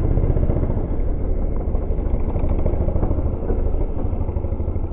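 Dirt bike engine running steadily at idle.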